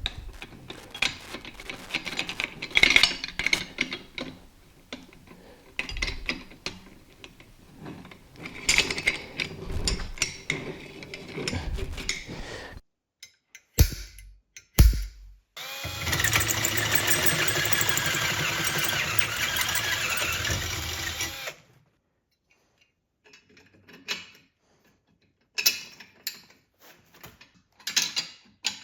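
Tools and metal parts clicking and clattering as they are handled, then a couple of sharp knocks. An electric drill runs steadily for about five seconds, boring a hole down the center of an engine-stand caster mount, then stops, leaving a few scattered clicks.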